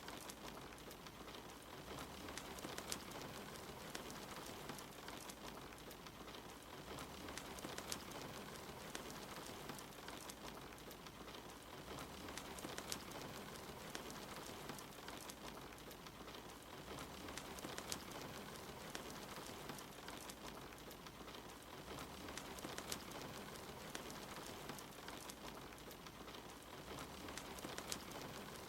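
Steady soft rain hiss mixed with a wood fire crackling in a fireplace, its sharp pops scattered irregularly throughout.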